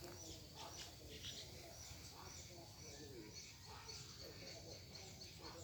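Faint outdoor ambience: small birds chirping over and over above a steady high insect trill, with faint distant voices underneath.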